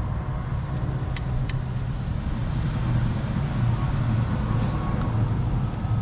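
Steady low background rumble, with two sharp clicks about a second in.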